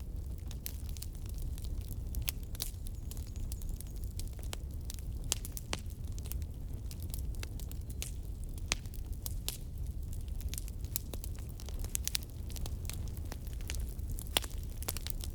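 Firewood burning, with irregular sharp crackles and pops over a low, steady rumble.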